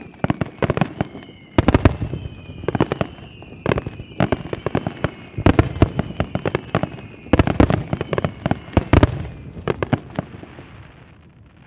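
Aerial fireworks going off in rapid volleys of sharp bangs and crackles, with several heavier barrages. Under the first half a high whistling tone slowly falls in pitch, and the bursts thin out near the end.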